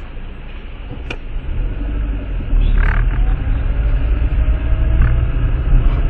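Low rumble of a car's engine and road noise inside the cabin, picked up by a dashcam, growing louder about two and a half seconds in as the car moves off. A single click about a second in.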